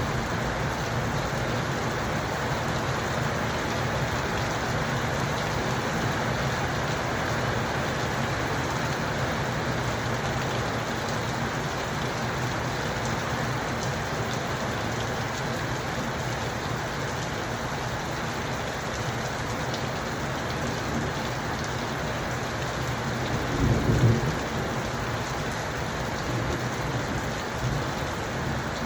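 Steady rain falling, an even hiss of drops. About three-quarters of the way through, a short low rumble of thunder rises above the rain and fades.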